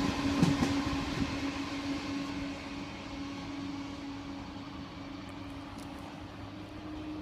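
Eurostar Class 373 high-speed train pulling out and moving away, its noise fading over the first three seconds to a low, steady hum with one held tone.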